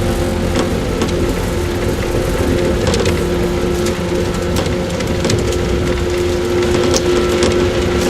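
JR 115-series electric multiple unit (motor car KuMoHa 115-318) running between stations. A steady traction-motor and gear hum sits over the rolling rumble of the wheels on the rails, with scattered sharp clicks from the running gear.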